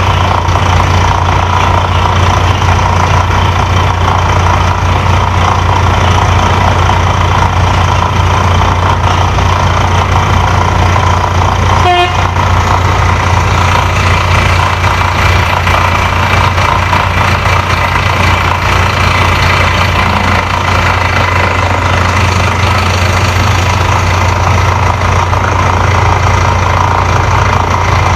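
Heavy mining machinery running steadily with a constant low hum. About twelve seconds in there is a brief short beep or toot.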